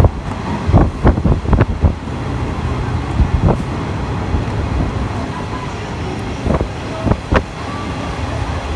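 Train running, heard from an open-air trolley car: a steady low rumble with wind noise, broken by scattered sharp knocks, several in the first two seconds and a few more later on.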